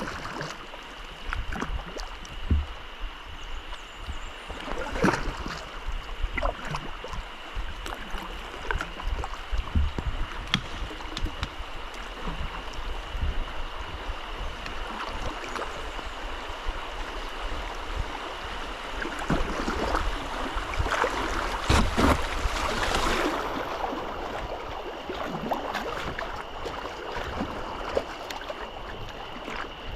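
Kayak paddling on a river: paddle blades dipping and splashing with small knocks and drips over flowing water, with a steady high tone in the background. A louder rush of water comes about two-thirds of the way through.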